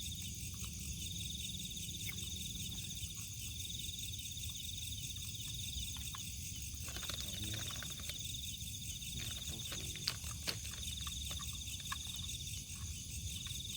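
Night insects, crickets among them, calling in a grassland: a high pulsed trill that comes and goes in repeated bursts over a steadier, higher insect chorus. There are a few faint clicks about two-thirds of the way through.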